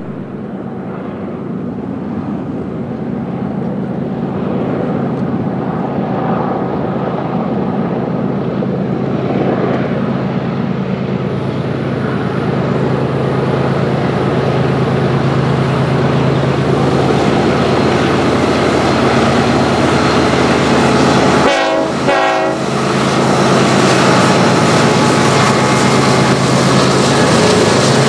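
BNSF intermodal freight train's diesel locomotives and cars approaching and passing, a heavy rumble of engines and rail noise that grows louder over the first half and then holds steady. There is a brief dip about three quarters of the way through.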